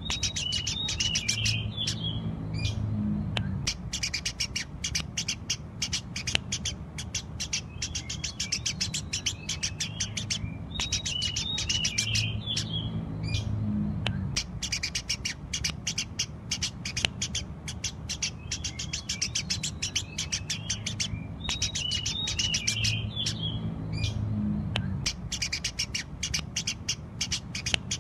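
Eurasian tree sparrows chirping rapidly and without pause, many short sharp chirps a second, over a low background rumble.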